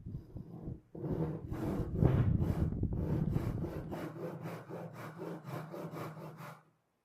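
Hand saw cutting through a cedar board in repeated strokes, the strokes getting shorter and quicker, about five a second, before the cutting stops shortly before the end.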